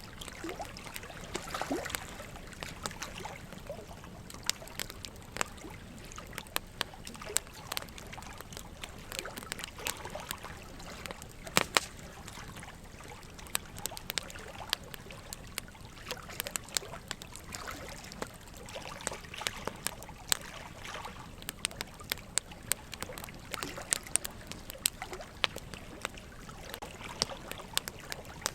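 Wood fire crackling, with frequent sharp pops and snaps, the loudest about halfway through. Under it runs a steady trickle of water.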